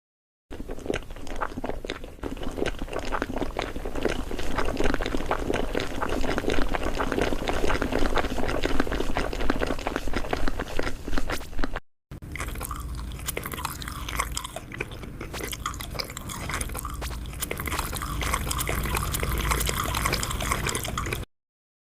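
Crunchy food being bitten and chewed, a continuous run of crisp crunches. It breaks off abruptly about halfway through and starts again with a brighter, crisper sound.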